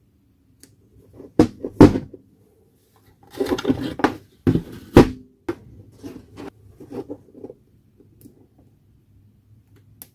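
Handling noise: a few sharp knocks and a rattling clatter, then lighter clicks, as of tools and parts being picked up and set down on a bench.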